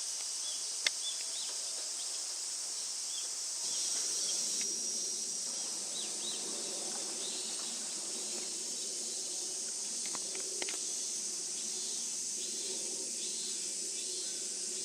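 Steady high-pitched insect chorus with a bird calling in short repeated notes; a low steady hum joins about four seconds in.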